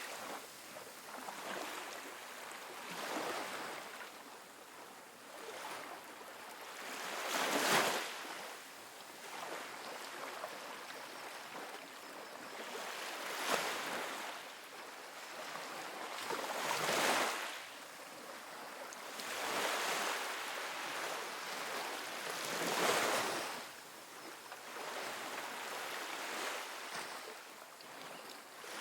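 Small ocean waves breaking and washing up on a sandy beach, one every few seconds, each rising in a hiss and falling back.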